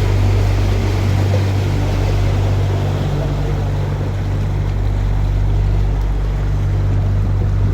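A canal tour boat's motor running at a steady low hum, with a rush of water and wind noise over it.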